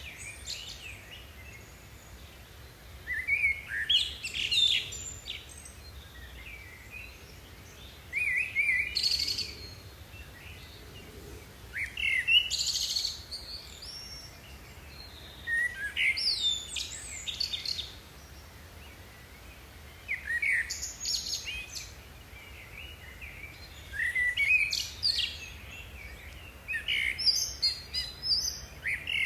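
Birds singing outdoors: short phrases of high chirps and quick gliding whistles, each a second or two long, repeating every few seconds.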